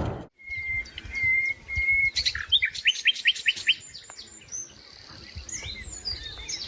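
Songbird singing: three steady whistled notes, then a quick run of about six sharp descending notes, then scattered chirps and trills.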